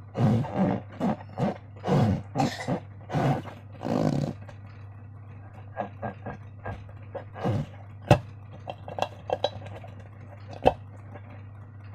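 Slime being squished and kneaded, with quick runs of wet squelches for the first four seconds, then sparser small pops and two sharp clicks, over a low steady hum.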